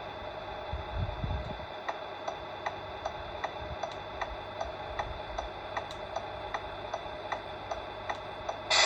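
Sound unit of a Tamiya Mercedes-Benz Actros radio-controlled truck: an even electronic ticking, about two and a half ticks a second, over a faint steady hum. Near the end comes a short, loud hiss.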